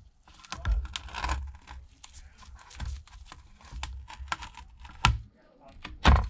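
Adhesive tape being peeled off the inside of an opened iPad Pro, a crackling, tearing sound broken by several sharp clicks. The loudest clicks come near the end.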